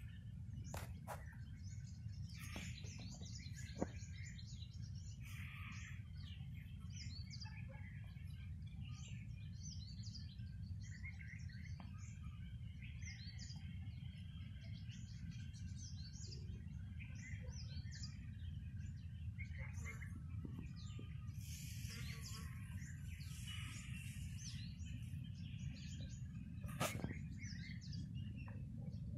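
Small birds chirping: many short, high chirps scattered throughout, over a low steady rumble, with a few faint clicks.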